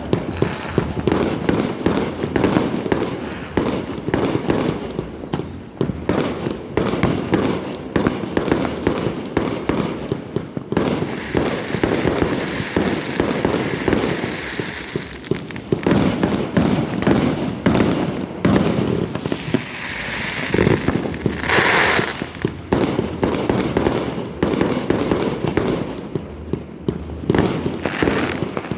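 Many fireworks going off at once: a dense, unbroken barrage of overlapping bangs and crackles, with a stretch of steady hiss in the middle.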